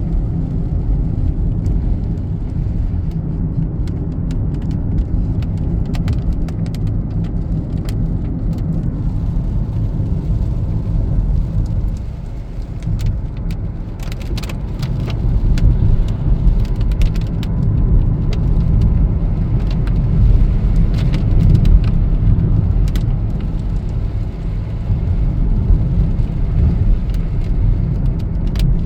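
Car driving in the rain, heard inside the cabin: a steady low road-and-engine rumble with scattered small ticks of rain on the car. The rumble eases briefly about midway, then builds again.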